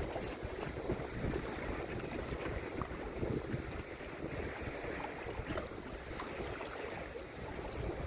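Strong sea wind buffeting the microphone in an uneven low rumble over the wash of the sea, with a few faint sharp clicks near the start and again near the end.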